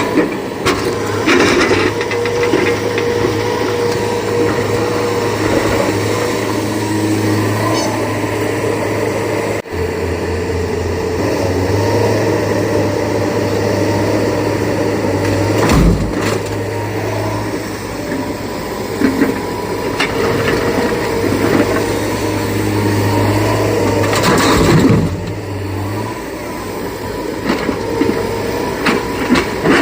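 Heavy diesel machinery engine running steadily, with two loud knocks, one about halfway through and one a few seconds before the end.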